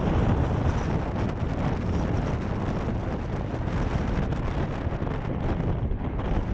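Wind blowing across the microphone: a steady, rough rumbling noise, heaviest in the low end.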